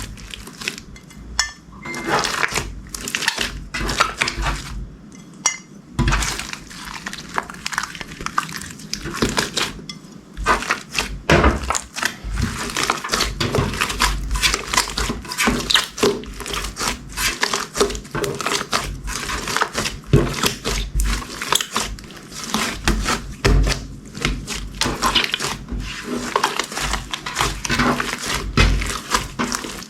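Slime being squished and pressed by hand, giving a dense, irregular run of crackles, clicks and pops with occasional soft thumps.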